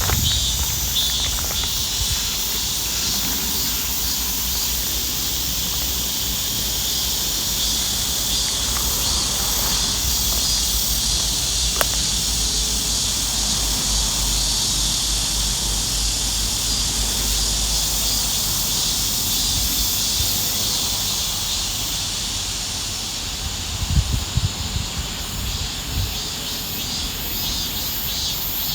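Steady, high-pitched chorus of insects chirring, with a low rumble underneath and a few soft thumps near the end.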